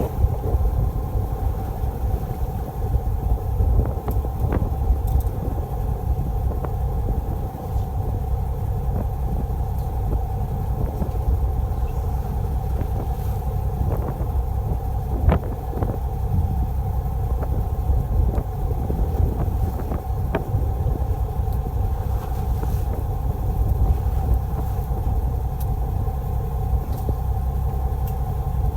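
Fishing boat's engine running steadily: a low rumble with a constant hum above it, and a single sharp knock about fifteen seconds in.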